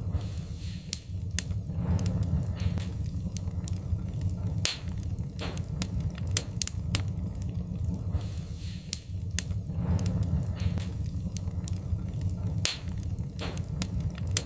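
Wood fire crackling in a fireplace: irregular sharp pops and snaps over a steady low rumble, with a soft hiss swelling now and then.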